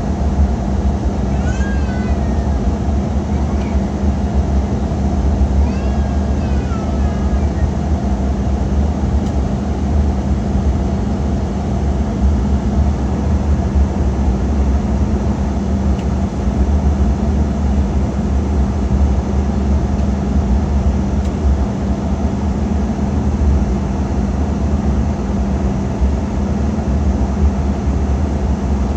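Steady cabin noise of an Embraer regional jet in flight: engine and airflow rumble with a constant low hum. Twice in the first several seconds, a short, wavering, high-pitched cry sounds over it.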